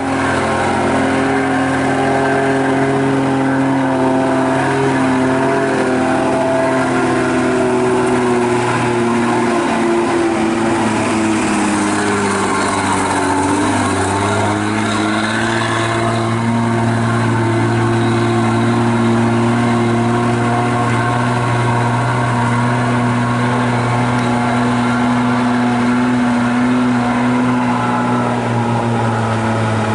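Truck engine running steadily under load, its pitch sagging and then recovering about halfway through.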